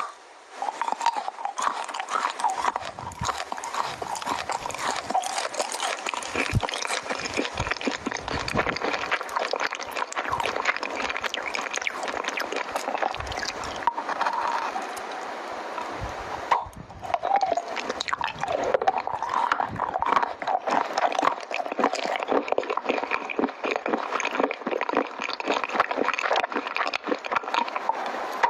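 Close-miked chewing of chocolate: a dense run of quick wet mouth clicks and smacks, with a short pause about halfway through.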